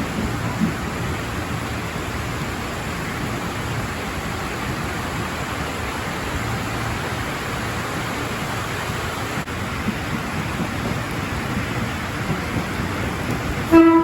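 Heavy rain falling steadily, a continuous hiss. Near the end, a short loud blast of a train horn on one pitch.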